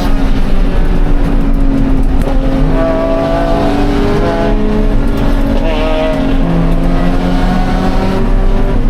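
Scion FR-S's 2.0-litre flat-four engine running loud and steady, its pitch shifting slightly, with road noise underneath.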